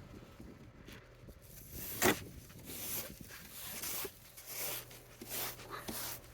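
Snow being scraped off a car in a series of rough strokes, with a sharper scrape about two seconds in.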